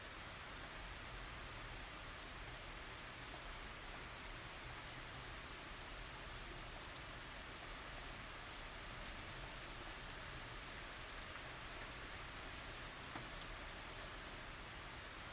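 Steady light rain falling, an even hiss with many fine drop ticks.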